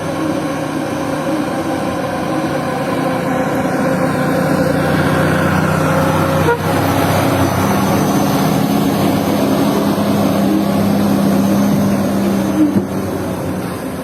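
Heavy logging truck's engine running steadily while hauling a load of logs, a steady hum with a short break about halfway through, after which a stronger steady tone holds.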